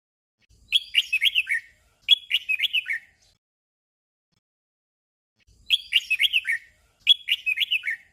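Red-whiskered bulbul singing a short, quick warbled phrase twice in a row, the 'doubled' song. After a pause of about two seconds it gives the same doubled phrase again.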